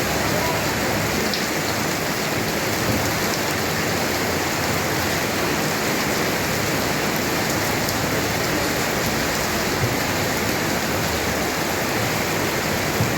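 Heavy rain falling steadily: an even, unbroken hiss of downpour on surfaces.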